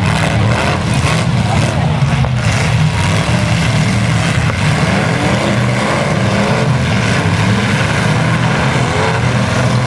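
Engines of several full-size demolition derby trucks running and revving hard together, loud and continuous.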